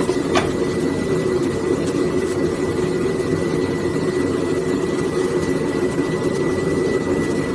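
Forge's dual burners running, a steady low rushing noise with a thin, constant high tone above it; one short click about half a second in.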